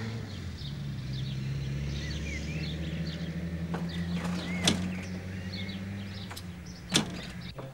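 Birds chirping in short rising notes over a steady low hum, with two sharp clicks in the second half.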